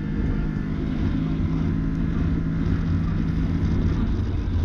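Can-Am Maverick Sport X mr side-by-side's engine running steadily under way, then dropping to a lower pitch about four seconds in as the revs fall, with wind noise on the microphone.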